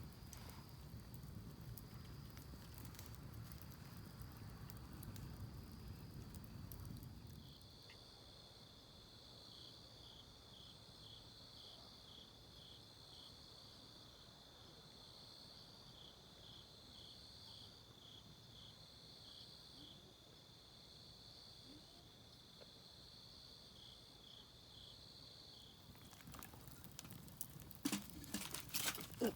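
Faint insect chorus, crickets or similar: a steady high trill with a pulsed chirp repeating a little more than once a second. A low rushing noise underlies the first several seconds, and a few sharp clicks come near the end.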